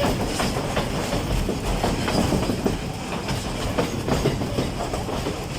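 Narrow-gauge forest railway train hauled by an Mk48 diesel locomotive, running along the track: a steady low rumble with irregular clicks and clatter of wheels over the rails.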